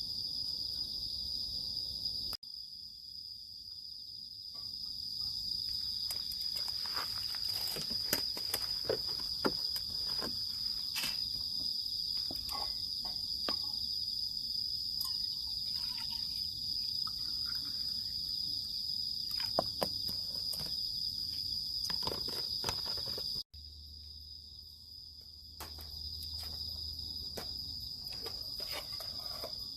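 Steady high-pitched chorus of crickets and other insects, with scattered clicks and rustling of handling or footsteps over most of it.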